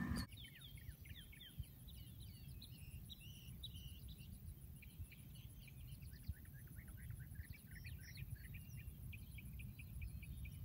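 Faint chorus of small birds: many short, high chirps that fall in pitch, several a second, over a low rumble.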